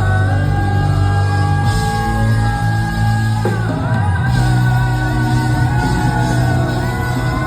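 Live band and singer performing a song, with long held notes; the chord changes about halfway through.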